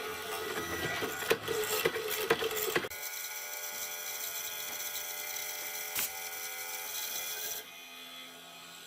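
Wood being worked by hand: rough scraping and rubbing with several sharp knocks for about three seconds, then a steadier ringing hum of several tones that drops away near the end.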